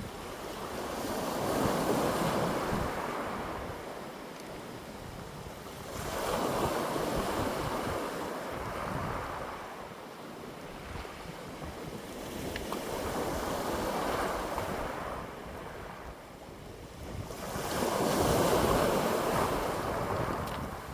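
Wind gusting in slow swells that rise and fade about four times, with a low rumble of wind on the microphone underneath.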